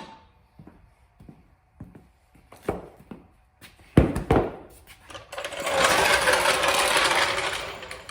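Scattered metal knocks and a loud clank, then a few seconds of fast mechanical rattling from tool work on a tractor.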